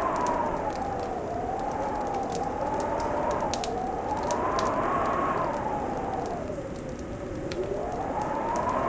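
Wind howling, its pitch slowly rising and falling every second or two, over a fireplace crackling with scattered sharp pops.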